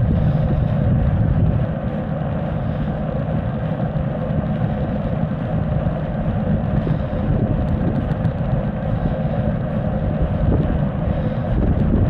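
Steady rumbling ride noise of an electric mountain bike being ridden, with a constant low hum running under it.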